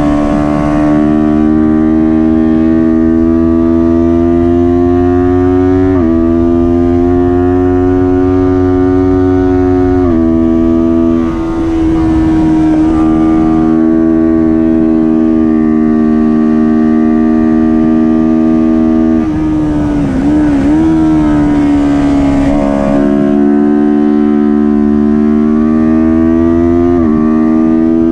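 Kawasaki Ninja 400 parallel-twin engine running hard at high revs. Its pitch climbs through each gear and drops sharply at several quick upshifts, and about two-thirds of the way through the revs fall and waver briefly as the bike slows and downshifts before pulling up again.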